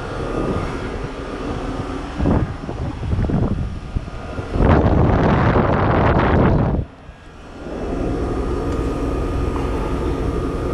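2008 Trane XB13 heat pump running in cool mode just after start-up, with a steady mechanical hum from the outdoor unit. About four and a half seconds in, a loud rushing noise lasts about two seconds. The sound then drops briefly before the steady hum returns.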